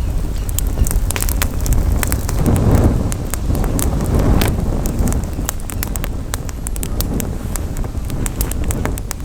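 Campfire crackling, with many sharp pops scattered throughout, over wind buffeting the microphone; the wind swells louder about three to four seconds in.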